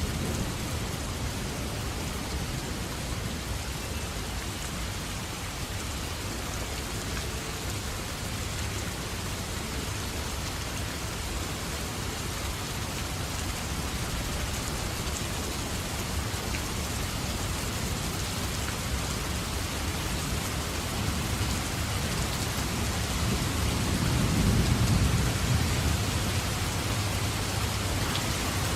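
Steady heavy rain falling, an even hiss. About three-quarters of the way through, a low rumble of thunder swells and fades.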